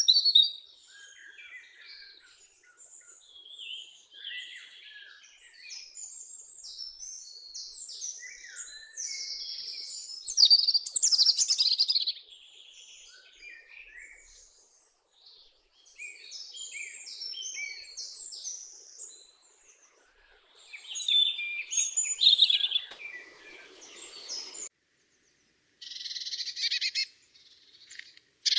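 Songbirds chirping and singing, many short high calls overlapping one another, louder in stretches about ten seconds in and again a little after twenty seconds. Near the end the sound cuts out abruptly twice.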